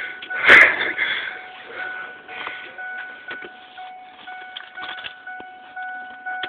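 A steady electronic tone sounding on and off, with rustling and scattered knocks, and one loud knock about half a second in.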